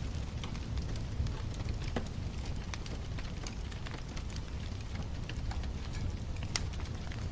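Wood bonfire crackling, with irregular sharp pops and snaps over a steady low rumble; one pop stands out about six and a half seconds in.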